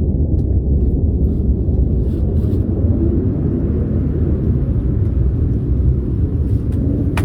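A loud, steady low rumble with no clear tone, cutting in and out abruptly.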